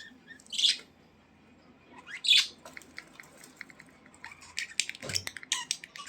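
Budgerigars chirping, with two loud harsh squawks in the first half and a run of quick short ticks and chirps later on.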